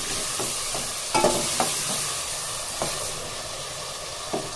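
Chicken frying in oil in a stainless steel pot, with a steady sizzle, while a steel ladle stirs it and clinks and scrapes against the pot several times.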